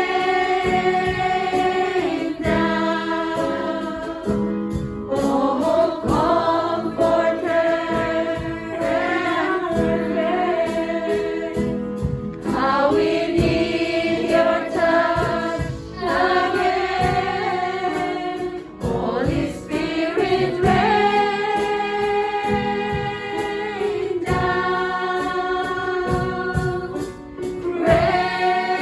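Choir singing a slow worship song, holding long notes that change every few seconds.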